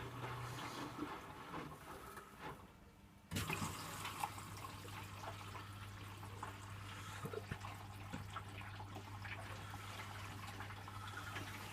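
Electrolux W455H commercial washing machine taking in water, the fill running with a steady low hum. The flow stops about two and a half seconds in and starts again abruptly under a second later.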